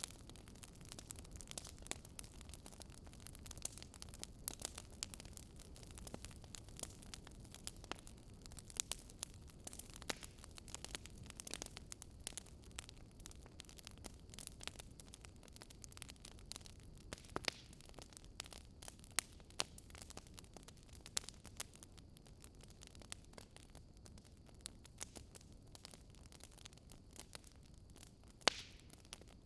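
Wood fire crackling in a fireplace: irregular sharp pops and snaps over a soft, steady low rumble.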